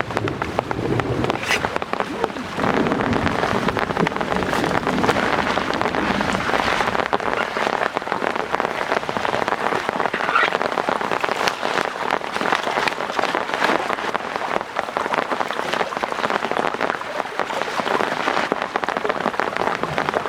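Heavy rain falling steadily, a dense patter of many drops; it grows louder about two and a half seconds in.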